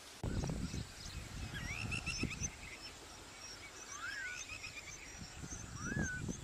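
Birds calling: runs of short rising chirps and a few separate rising-then-falling whistled calls, over irregular low rumbling bursts.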